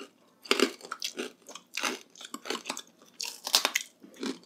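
Close-miked crunching and chewing of crisp chicharon bagnet (fried pork crackling), a series of irregular crunches with short pauses between bites.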